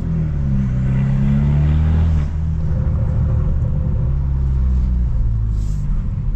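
Tuned BMW F30 328i's turbocharged four-cylinder engine and exhaust pulling under acceleration, its pitch rising, then dropping off about two seconds in and settling into a lower, steadier drone.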